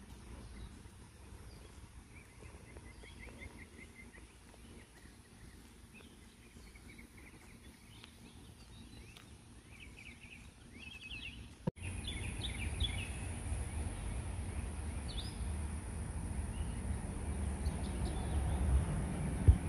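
Songbirds chirping and singing quick trills. About halfway a steady low rumble comes in under them, and a sharp thump sounds near the end.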